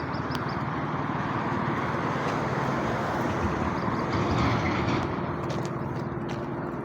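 Road traffic: a steady rush of vehicles, with one passing louder about four to five seconds in.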